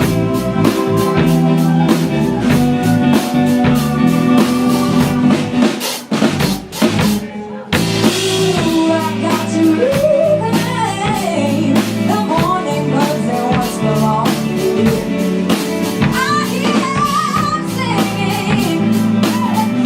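Live band playing a rock song with a drum kit keeping a steady beat; the band drops out briefly about six seconds in, then comes back with a woman singing the melody over drums and guitar.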